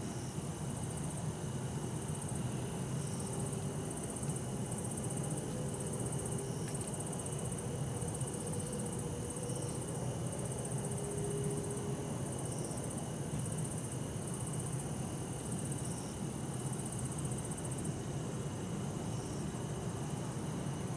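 Crickets, among them bell crickets (suzumushi), trilling steadily in the night, with a brief higher note repeating every few seconds. A low steady rumble runs underneath.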